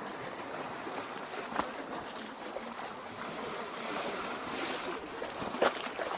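Small lake waves lapping against the shore, a steady wash of water with a sharper splash about a second and a half in and a louder one near the end.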